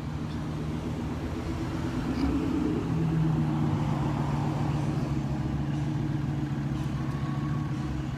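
Slow-moving parade traffic of cars and trucks: a steady engine hum over road noise, getting louder about three seconds in as a vehicle comes closer.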